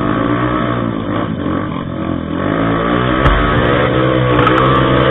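Trail motorcycle engine running under changing throttle, its note rising and falling, with a sharp knock about three seconds in.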